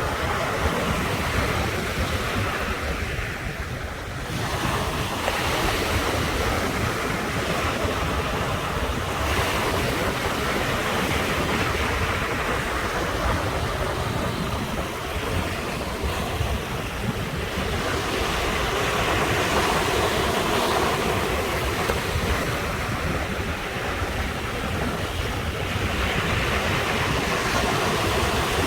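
Ocean surf breaking on the shore: a continuous wash of water that swells and recedes every several seconds.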